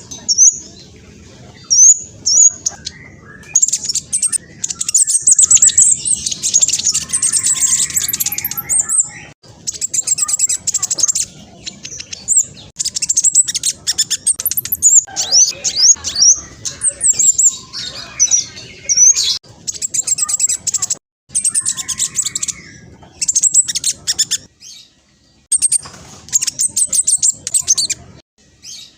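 Black sunbird singing a fast, high-pitched chattering song of rapid trills and quick sweeping notes, delivered in bursts with short pauses between phrases.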